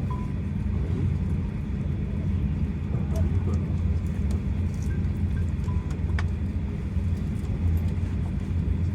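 Steady low rumble inside the passenger cabin of a Boeing 737-800 on the ground after landing, with a few faint clicks.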